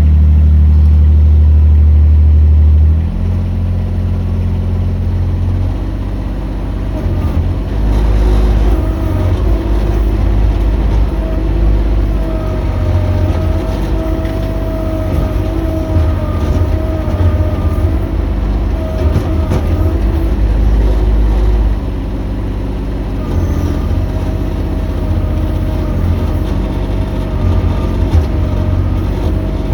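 Mini excavator engine running, stepping down in level about three seconds in, with a steady whine that comes and goes from about twelve seconds in.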